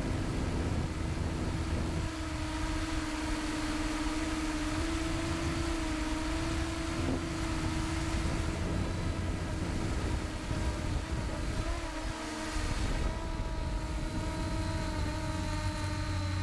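An engine running steadily, its hum drifting slightly up and down in pitch over a constant low rumble.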